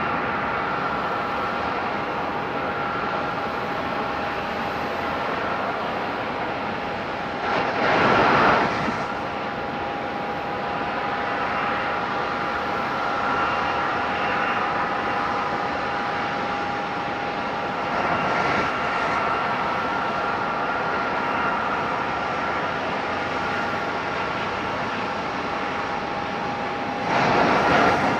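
Southwest Boeing 737 jet engines running with a steady whine at two pitches over a rushing roar. A brief louder rush of noise comes about eight seconds in and again near the end.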